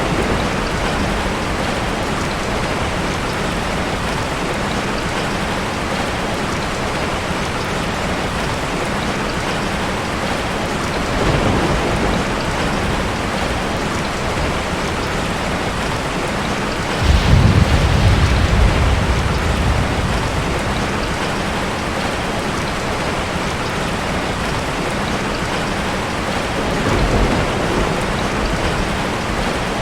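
Heavy rain falling steadily. A rumble of thunder starts suddenly a little past halfway and lasts a few seconds, with fainter rumbles before and after it.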